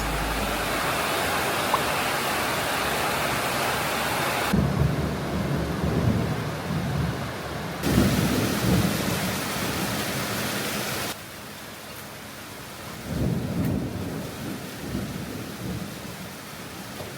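Steady rain falling, with low rolling rumbles of thunder several times. The rain's hiss changes level abruptly a few times.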